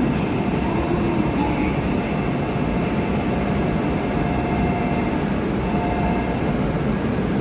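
Coupled E5/E6-series shinkansen (Hayabusa and Komachi) running, a steady, even rush and rumble of train noise with faint steady tones.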